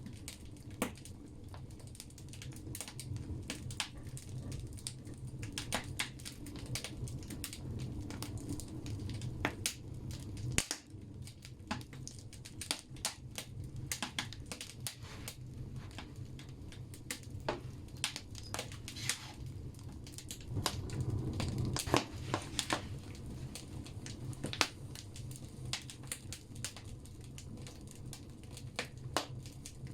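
Firewood logs burning in a wood stove, crackling with frequent irregular sharp pops over a steady low rumble of the fire's draught.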